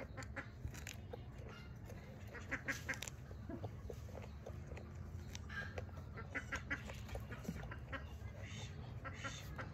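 Sharp crunching bites and chewing of a raw vegetable, with poultry, duck-like, calling in short harsh bursts from about the middle on.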